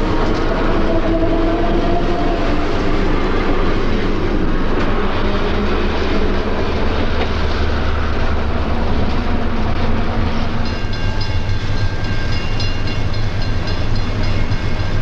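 Electric interurban train on the rails: a steady heavy rumble with wheel clatter. About ten seconds in, a rapid series of short high tones joins it.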